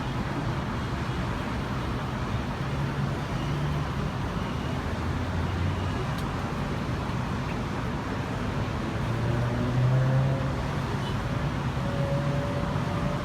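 Steady road traffic noise, with vehicle engines running and a low engine hum that swells briefly about ten seconds in.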